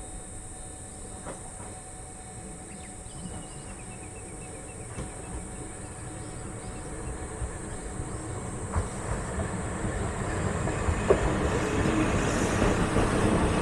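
Single-car diesel railcar running, its low rumble growing steadily louder, with a few sharp clicks late on.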